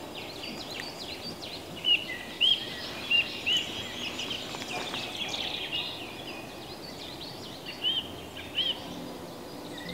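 Several songbirds singing and chirping together in woodland, with one louder bird repeating a short rising-and-falling whistled note about six times, over a steady low background hiss.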